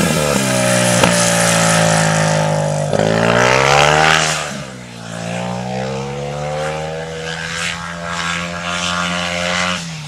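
Speedway bike's 500 cc single-cylinder methanol engine revving hard as the bike slides through the turns. The engine note holds, climbs about three seconds in, falls away sharply with a dip in loudness a little later, then builds again.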